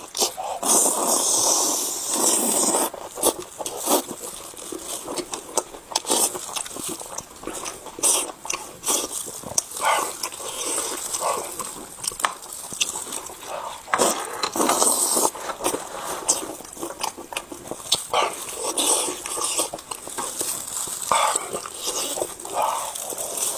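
Close-miked eating sounds of a man chewing a mouthful of braised pork belly wrapped in lettuce with kimchi: irregular wet chewing, lip smacks and clicks.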